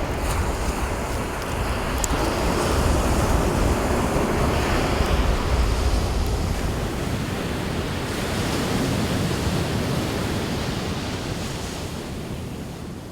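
Ocean surf washing onto the beach, with wind buffeting the microphone; the sound swells and eases and fades out near the end.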